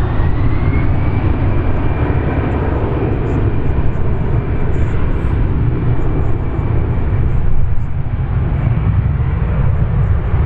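Jet airliner's engines running at the airport, their whine rising in pitch right at the start and then holding steady and slowly fading, over a steady low rumble.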